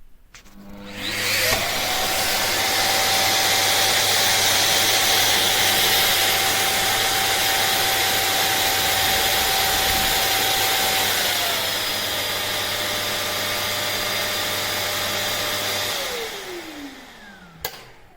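Shark Detect Clean & Empty vacuum motor spinning up with a rising whine and running steadily with an airy rush. Its pitch steps down slightly partway through, then it winds down with a falling whine near the end, followed by a single click.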